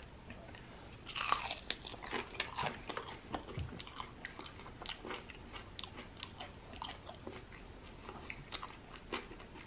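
Close-up biting and chewing of a sauce-covered fried chicken wing: crisp crunches and wet, irregular clicks, loudest in the first few seconds after the bite about a second in, then softer chewing.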